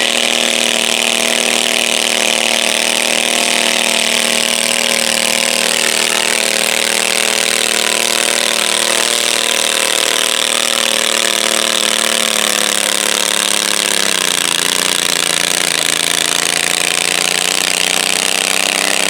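Stock garden tractor engine running flat out under load during a pull, a steady high-revving drone. About two thirds of the way through, the pitch sags and settles lower as the engine lugs down near the end of the pull.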